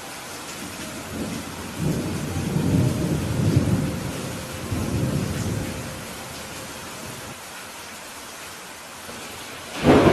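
Steady rain hiss with a rumble of thunder that rolls for about three to four seconds from about two seconds in, then dies away; just before the end a sudden, louder crack of thunder breaks in.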